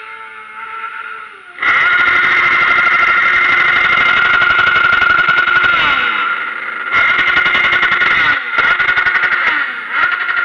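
Motorcycle engine revved hard and held against its rev limiter, cutting in with a sudden jump in level, dropping back briefly midway with a falling pitch, then hitting the limiter again and stuttering near the end.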